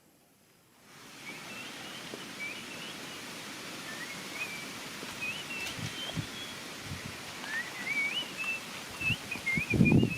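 A small bird chirping in short, wavy notes, repeated again and again over a steady outdoor hiss that starts about a second in, with a few soft rustles and thumps toward the end.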